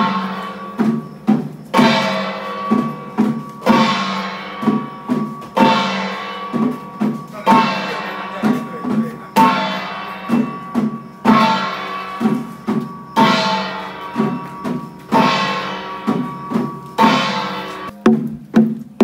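Chinese temple-procession percussion: a big ringing gong stroke about every two seconds, each dying away slowly, with quicker drum beats in between.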